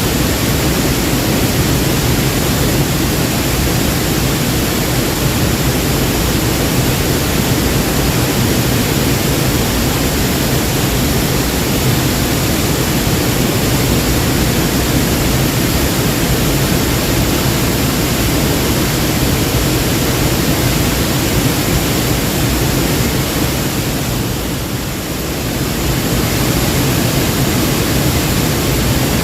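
Waterfall: a loud, steady rush of falling water that eases slightly for a moment a few seconds before the end.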